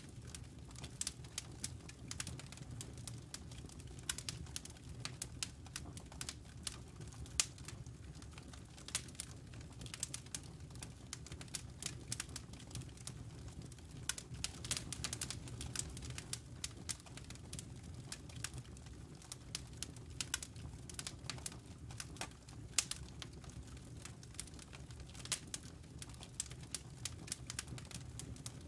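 Campfire embers and wood crackling, with frequent irregular sharp pops and snaps over a low steady rumble.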